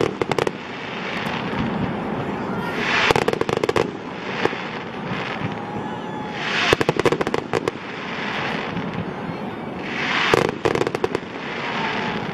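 Fireworks display: aerial shells bursting in four clusters of sharp bangs and crackles, about every three to four seconds.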